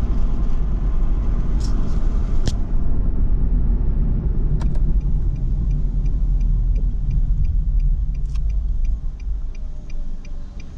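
Steady low road and engine rumble inside a moving car, easing off over the last couple of seconds as the car slows. From about five seconds in, a turn signal ticks evenly about twice a second.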